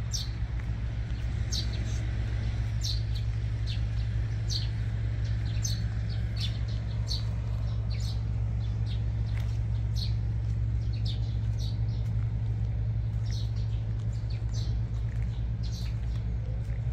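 A bird chirping over and over, short high chirps about once a second, over a steady low mechanical hum.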